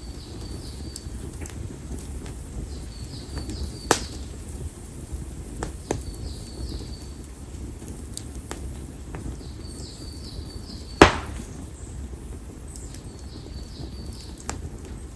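Split konara oak logs burning in an open campfire: a low steady flame rumble with crackling and a few sharp pops, the loudest about eleven seconds in. A faint high chirp of three or four quick notes repeats every few seconds in the background.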